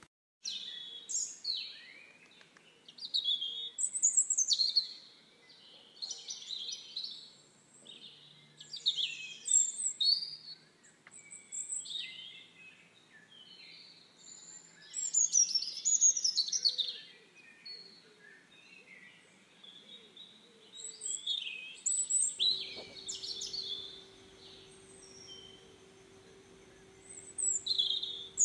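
Several small birds singing and chirping in quick, overlapping phrases that come in bursts every second or two.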